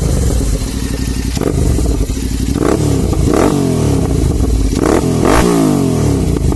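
Royal Enfield Interceptor 650's parallel-twin engine idling through its exhaust, with a few quick throttle blips in the middle where the revs rise and drop straight back.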